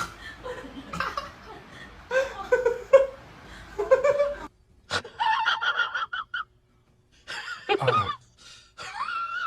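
Laughter for the first few seconds, then a click and a series of short, high-pitched cries, one falling sharply in pitch, and a wavering high cry near the end.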